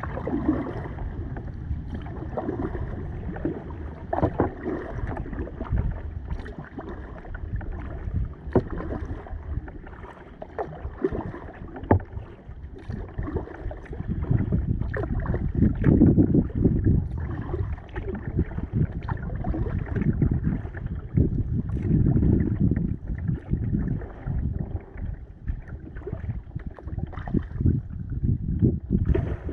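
Kayak being paddled: paddle strokes splashing and dripping in the water, with scattered sharp knocks.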